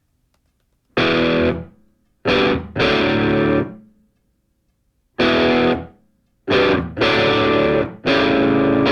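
Background music: distorted electric guitar playing held chords in short stop-start phrases, with silent gaps between them.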